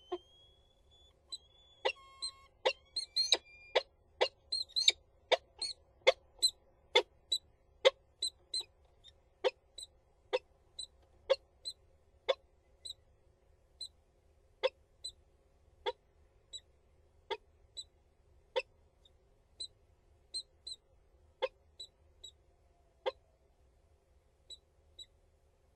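Peregrine falcons calling: a long series of short, sharp calls, about two a second at first and then slowing to about one a second, after a brief rising whine at the start.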